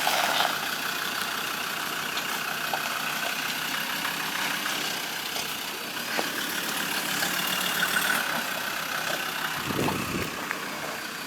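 Old Land Rover engine running at low revs while the vehicle is slowly manoeuvred back and forth in a tight turn. A brief low thump comes near the end.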